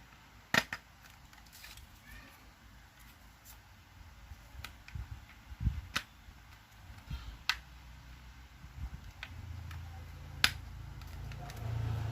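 Sharp clicks of toy airplane plastic parts being handled and fitted together, a handful of separate snaps spread over the stretch, with a low rumble of handling noise in the last few seconds.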